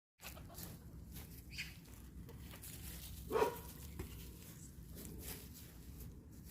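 A dog barks once, faintly, about three seconds in, over a low steady background rumble with scattered faint ticks.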